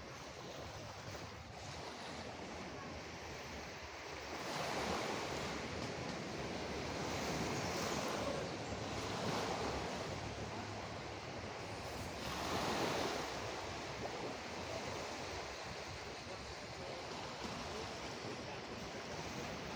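Sea waves breaking and washing ashore in a continuous surf, with several louder swells a few seconds apart.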